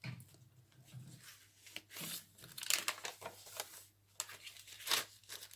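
Paper pages and card inserts of a handmade junk journal rustling and swishing as they are handled and turned, in irregular bursts.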